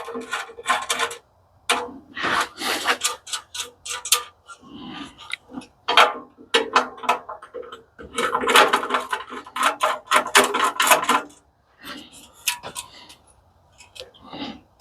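Rapid metallic clicking and scraping from hand tools working loose fasteners on a commercial coffee machine. The sound comes in several spells separated by short pauses.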